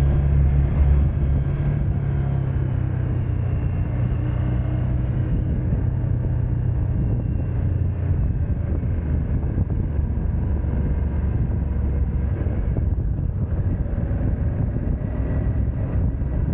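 A vehicle on the move: steady low engine and road rumble.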